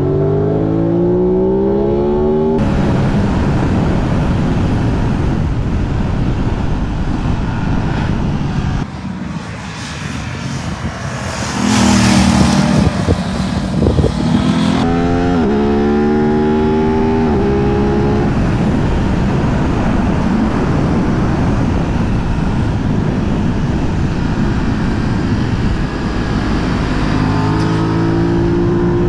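Aprilia 660 parallel-twin motorcycle engine accelerating hard, its pitch rising and dropping back at gear changes, under heavy wind rush on the rider's microphone. A louder rushing surge comes about twelve seconds in.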